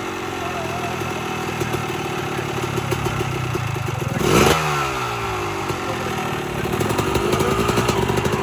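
Motorcycle engine running as the bike rides past close by, loudest about halfway, its pitch dropping as it moves away, then running on steadily.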